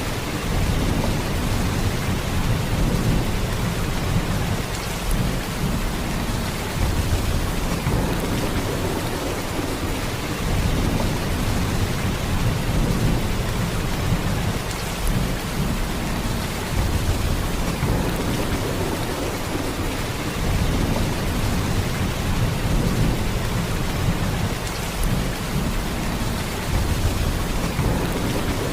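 Heavy rain falling steadily: a dense, even hiss with a deep low rumble underneath that swells and eases every few seconds.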